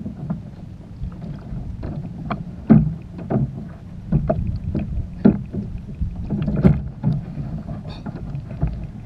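Irregular knocks and thumps on a kayak hull, over a steady low rumble of water and wind.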